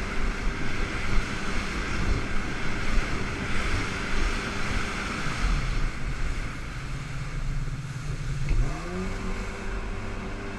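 Jet ski engine running under wind and water noise; about eight and a half seconds in its pitch rises as the throttle opens, then holds steady.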